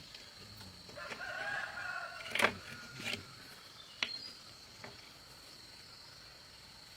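A rooster crowing once, a pitched call lasting about a second and a half, followed by a few sharp knocks, the loudest about two and a half seconds in.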